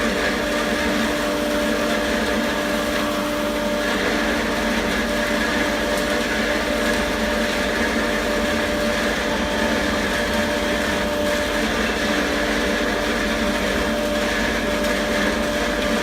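Pillow-stuffing vacuum machine (a blower for filling pillows) running steadily: a constant motor drone with a steady tone over an even rush of air.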